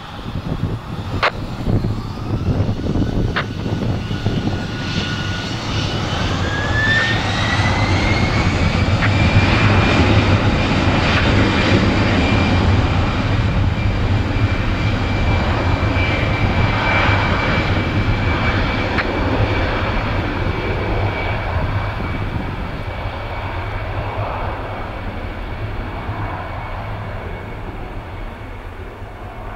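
Jet airliner taking off: the engines spool up to takeoff thrust with a whine that rises in pitch and then holds steady, and the noise builds to a peak about ten seconds in before slowly fading as the aircraft departs.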